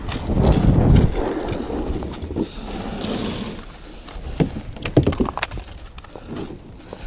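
Water splashing and rushing around a kayak, then a handful of sharp knocks, like a paddle or gear striking the kayak's hull, about four to five seconds in.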